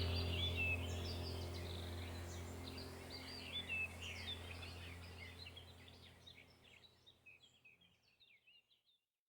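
Birds chirping over a low steady hum, the whole sound fading out gradually to silence over several seconds.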